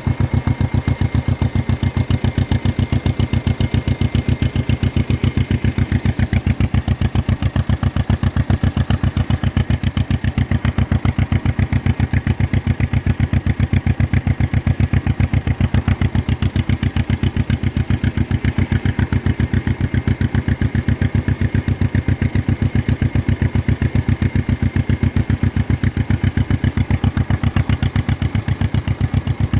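John Deere 40 tractor's two-cylinder engine running steadily, with a rapid, even pulsing beat.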